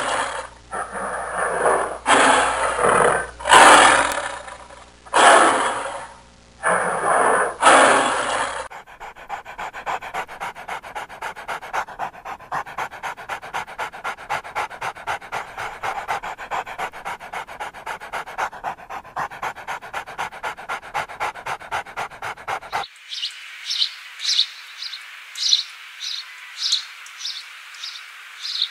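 A dog barking in a run of loud, separate calls, then a long stretch of fast, even, rhythmic pulses, then short high chirps repeated many times, like a bird calling, for the last few seconds.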